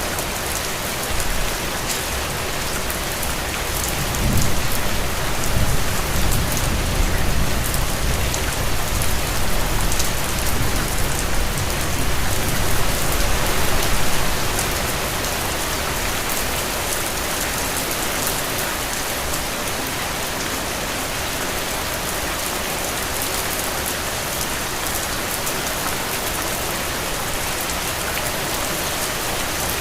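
Steady rain falling, with fine ticks of individual drops. About four seconds in, a low rumble swells up under the rain, runs for some ten seconds and fades away.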